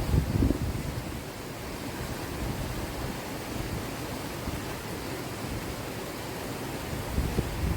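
Steady rush of falling water from a waterfall, with gusts of wind buffeting the microphone near the start and again near the end.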